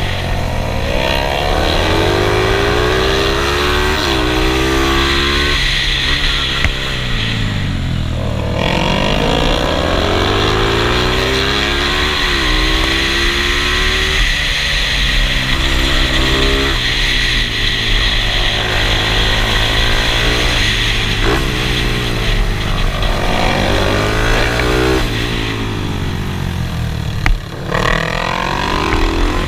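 Motorcycle engine at racing speed, its pitch climbing through each gear and falling at the shifts and braking points, over and over. A steady rushing noise runs underneath, and there is a short knock near the end.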